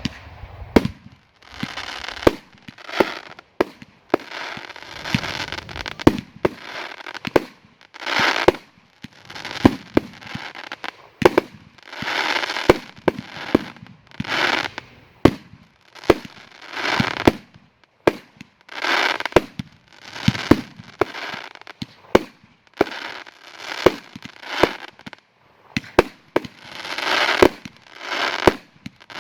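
Fireworks battery firing shot after shot, about one a second. Each shot is a sharp report followed by a burst of crackling.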